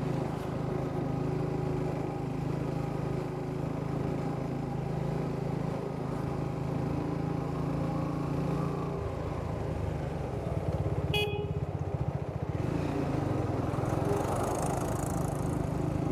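Triumph Speed 400's single-cylinder engine and exhaust running steadily while riding, easing off a little past the middle and picking up again. A very short horn toot sounds about eleven seconds in.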